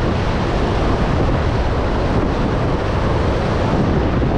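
Iguazu Falls at the Devil's Throat: a loud, steady rush of falling water, heavy in the low end.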